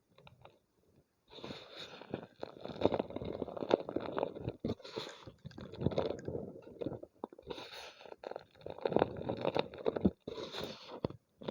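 Homemade gym chalk crunching and crumbling as it is crushed, full of crackles and sharp clicks. It starts about a second in and comes in several spells with brief pauses.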